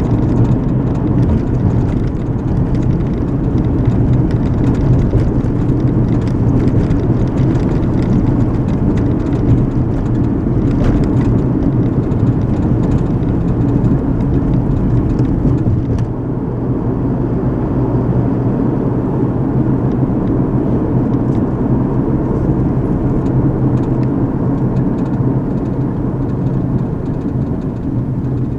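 Steady road noise of a moving car heard from inside the cabin: a low engine and drivetrain hum under tyre hiss. A little over halfway through, the higher hiss falls away and the sound settles lower and a little quieter.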